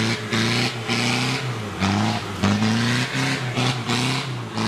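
Off-road 4x4's engine revved hard in repeated surges, its pitch rising and dropping about twice a second, with bursts of hiss alongside as the vehicle works up a muddy slope.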